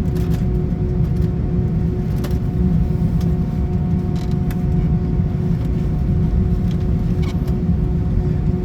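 Steady low cabin rumble of an Airbus A319 rolling on the ground after landing, with a constant hum and a few faint clicks.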